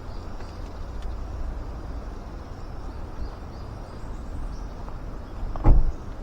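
Outdoor background noise with a steady low rumble, and one sharp knock near the end.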